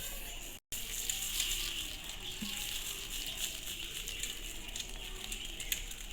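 Coarsely ground eggshell rattling and hissing as it is shaken through a flour sieve, a steady gritty patter of many fine ticks, with the unground bits of shell left on the mesh.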